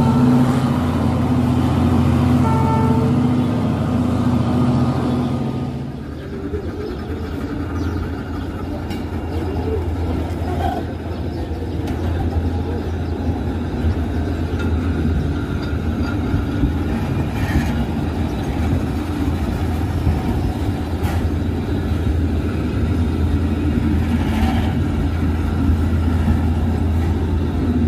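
Diesel locomotive engine running with a steady low hum. About six seconds in this gives way to passenger coaches rolling past on the rails, a steady low rumble with a few light knocks.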